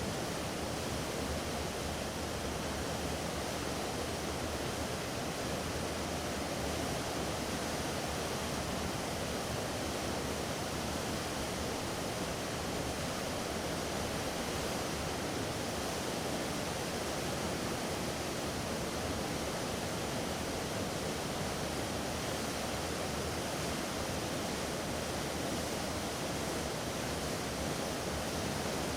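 Steady rushing wash of water from a ship moving through the water, an even hiss with no breaks or distinct splashes.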